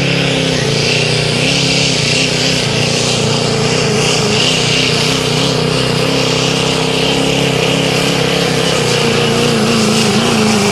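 Diesel 4x4 pickup truck's engine running hard at full throttle, pulling a weight-transfer sled down the track. The pitch wavers steadily up and down, then starts to drop near the end.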